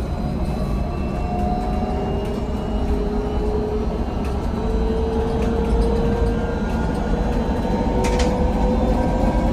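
VMZ Avangard trolleybus's electric traction drive whining as it gathers speed, the whine rising slowly in pitch over a low road rumble. A short click about eight seconds in.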